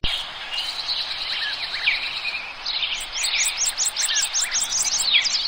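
Songbirds chirping over a steady background hiss of outdoor ambience, with a fast run of repeated chirps, about five a second, in the second half.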